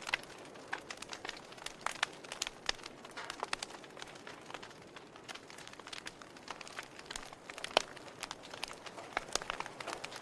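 Wood fire burning in a fireplace, crackling with irregular sharp pops and snaps over a soft hiss; one pop stands out louder about eight seconds in.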